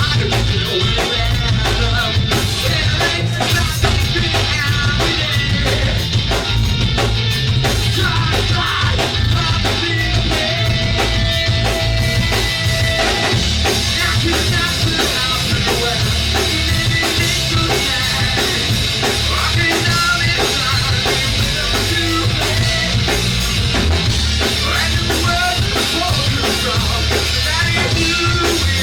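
A live band playing loud rock music with a drum kit, heavy bass and some singing, recorded close to the stage so it is dense and steady throughout.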